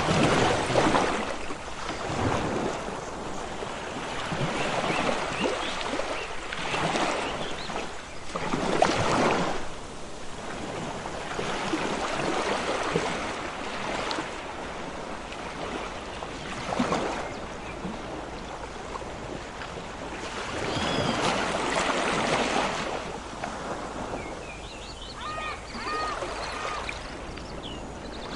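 Ocean waves washing in, a surge of surf every few seconds over a steady hiss, with a few short high chirps near the end.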